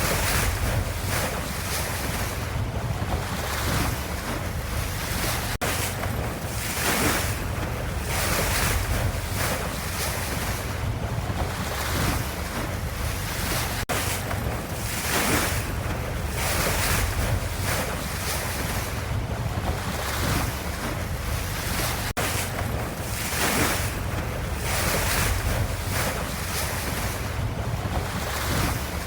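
Ocean waves washing in a continuous rush that swells and eases every second or two, with a faint click about every eight seconds.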